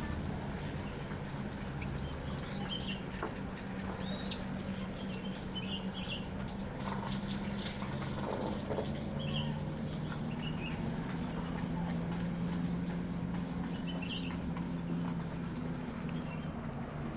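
Scattered short, high-pitched chirps and squeaks from small birds, some in quick clusters of two or three, over a steady low hum.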